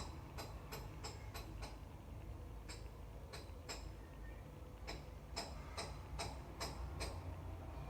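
A series of short, sharp taps in irregular clusters over a low steady rumble.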